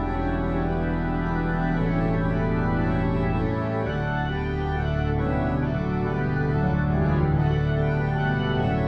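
Organ music: sustained chords over long held bass notes, with the bass shifting to a new note about four seconds in.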